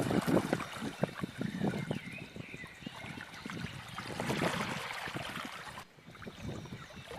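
Water splashing and trickling in uneven spurts, broken briefly about six seconds in.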